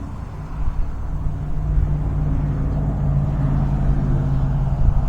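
Wind buffeting the microphone with a heavy rumble, over the steady low drone of a Volantex Ranger 600 RC plane's electric motor and propeller, growing louder and dropping slightly in pitch as the plane comes in to land.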